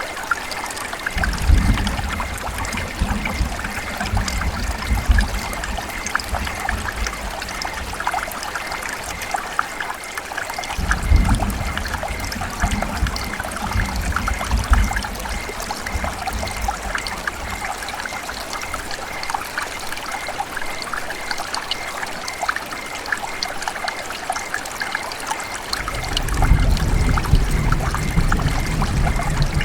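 River water running and trickling steadily, with a low rumble that swells up three times.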